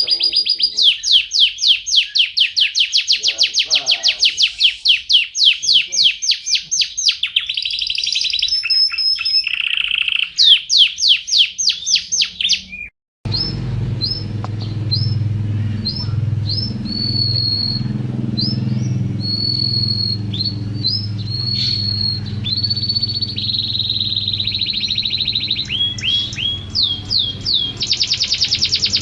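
White-rumped shama singing: a fast run of repeated sweeping whistles, then, after a brief dropout about 13 seconds in, separate clear whistled notes over a low steady hum, turning back into rapid sweeping phrases near the end.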